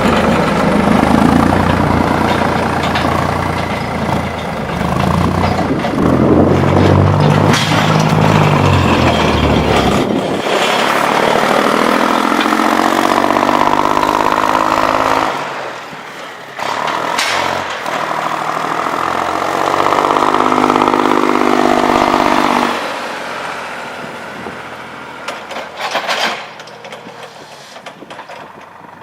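Forklift engine running under load, revving up and down several times as it drives and pushes the snowplow blade, then dropping quieter near the end.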